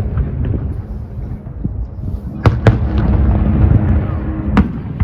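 Fireworks going off over a low rumble, with two sharp bangs close together about halfway through and another near the end.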